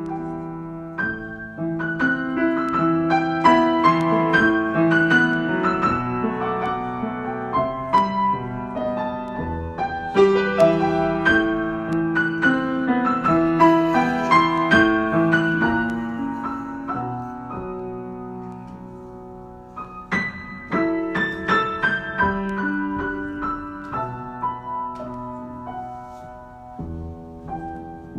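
Solo piano improvisation: chords and running melodic lines, each note struck and left to ring. It thins out and softens about two-thirds of the way through, then comes back in with a firm new attack.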